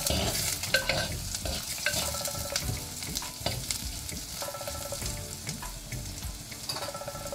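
Curry leaves, shallots and chilies sizzling in hot coconut oil in a clay pot, stirred with a steel ladle that scrapes and clicks against the pot's sides.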